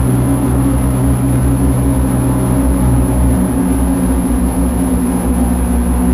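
Lyra-8 analogue synthesizer drone: dense low sustained tones with a thin, steady high tone above them. One of the low tones falls away about two and a half seconds in.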